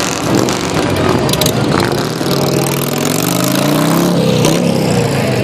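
Antique motorcycle engines running, with one engine climbing in pitch through the middle and then easing off.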